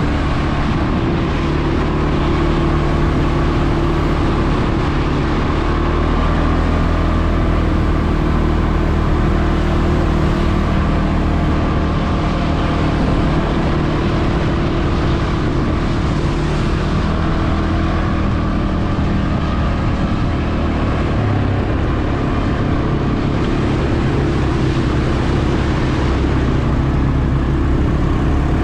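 CFmoto CForce 520 ATV engine running at a steady speed while riding, with constant road and wind noise.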